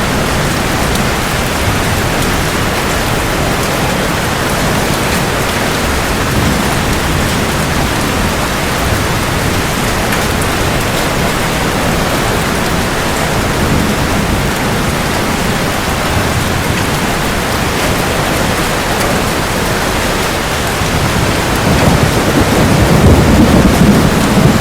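Steady rain falling, with a low roll of thunder swelling up near the end.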